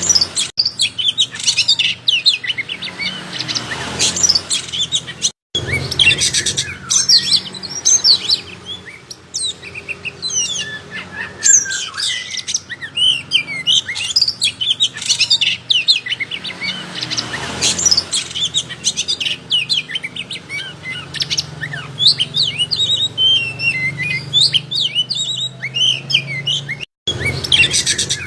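Oriental magpie-robin (kacer) in full song: a long, rapid run of varied whistles and chirps, with two very brief breaks.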